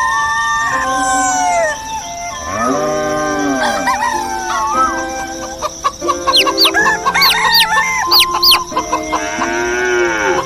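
A rooster crowing, once a few seconds in and again near the end, with small birds chirping in quick high notes in between: a dawn sound effect.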